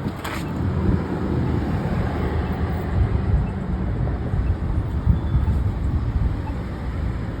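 Low, steady rumble of street traffic with wind buffeting the phone's microphone, and a brief rustle about a quarter of a second in.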